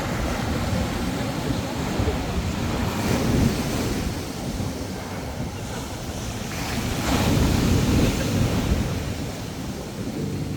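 Wind rushing over the microphone, a steady roar heaviest in the low end that swells about three seconds in and again around seven seconds.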